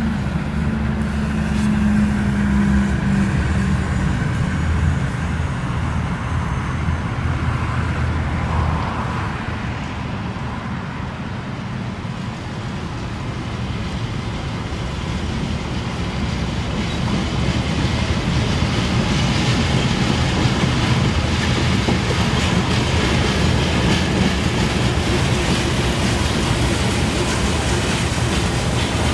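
A locomotive-hauled train approaching and passing close by. A low, steady engine note is heard first. A rumble then builds through the second half and stays loud as the locomotive draws level.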